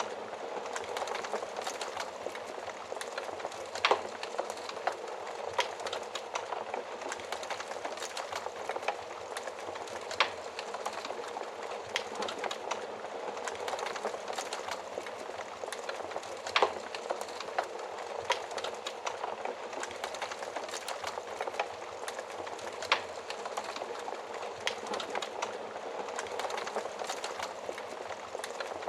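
Wood fire burning in an oven: a steady hiss of flames with constant small crackles and a few louder sharp pops.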